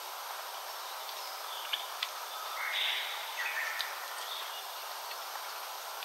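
Wild birds calling over a steady background hiss: a few short, high chips, and a harsh, buzzy call about a second long near the middle, the loudest sound.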